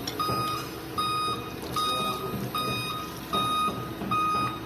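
Vehicle reversing alarm beeping steadily, about six short, even beeps a little under a second apart, over a low engine rumble.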